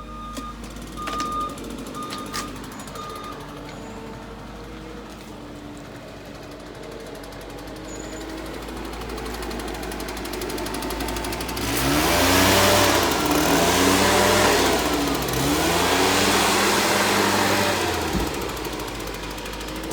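Bulldozer's diesel engine running, with a backup alarm beeping for the first few seconds. Past halfway the engine revs hard under load in several rising and falling surges, then eases off near the end.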